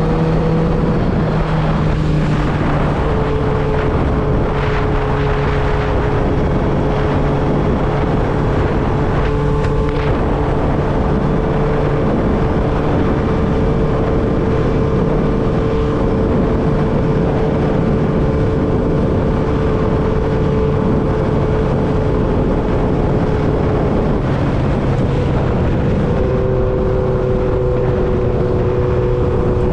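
1995 Honda CB750 Nighthawk's air-cooled inline-four running through a Vance and Hines 4-into-1 exhaust while riding at a steady engine speed. The pitch steps down about three seconds in and steps up again near the end.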